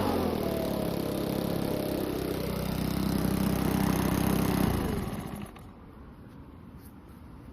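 Makita EUB4250 engine blower coming off full throttle. The fan's whine falls in pitch as it slows, and the engine settles to idle. About five seconds in the engine is switched off and stops.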